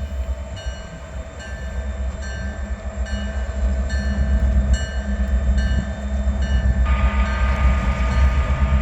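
A freight train led by a Grand Trunk Western locomotive rolls past with a steady low rumble. A high ringing tone repeats about twice a second, and a steady chord of higher tones joins about seven seconds in.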